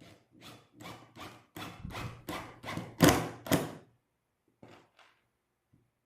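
Hammer blows on wood: about a dozen quick knocks, roughly three a second, growing harder to two loudest blows, then a pause and two lighter taps.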